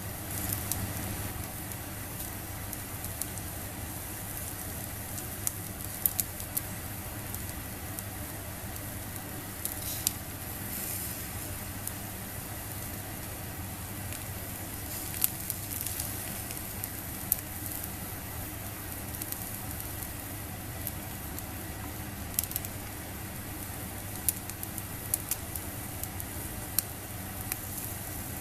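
Squid sizzling on a wire grill net over a small solid-fuel fire, with a steady hiss and scattered sharp pops and crackles.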